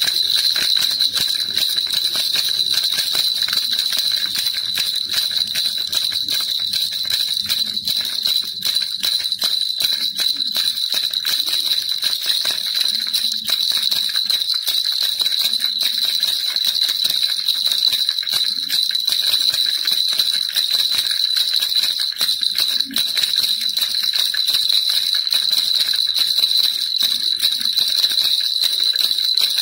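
Baby rattle shaken without pause, a dense jingling rattle with a steady high ring under the clicks.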